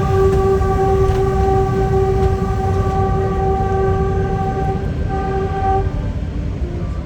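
Train horn blown in one long steady blast of about five seconds, then a second short blast, over the low rumble of the moving train. It warns people and children off the track ahead.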